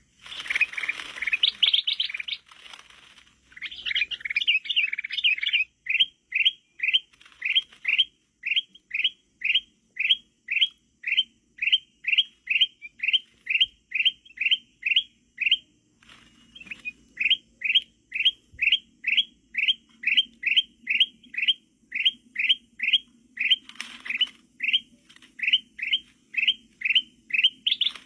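Kutilang mas bulbul calls: a jumbled burst of chirping, then a long, very regular series of short rising chirps at about two a second, with a brief pause about halfway through. This is the kind of call used as a lure to bring wild bulbuls in.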